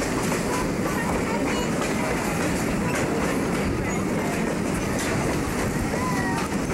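Passenger car of a train in motion, heard from an open window: a steady rumble with faint clicks from the wheels on the rails.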